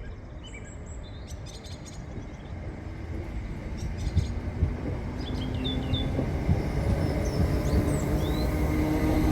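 A train approaching, its low rumble growing steadily louder, with a steady hum joining in over the second half. Birds chirp now and then over it.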